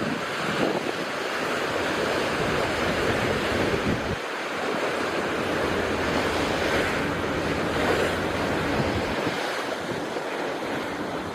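Steady rush of open sea and wind, with wind buffeting the microphone.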